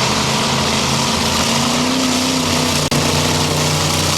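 Monster truck engine running steadily at a loud, held pitch, with a brief dropout about three seconds in.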